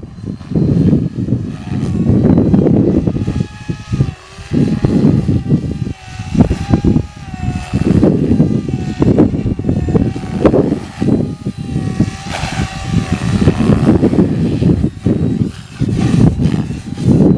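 MSH Protos electric RC helicopter flying, its motor and rotor whine rising and falling in pitch as it manoeuvres, with heavy wind buffeting the microphone.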